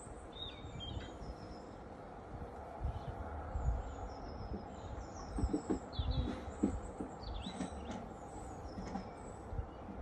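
Small birds chirping and singing, short repeated high notes and quick little glides, over irregular low rumbles.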